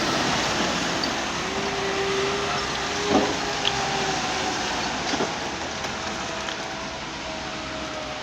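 Heavy vehicle engine running steadily, with a faint whine and a couple of brief knocks.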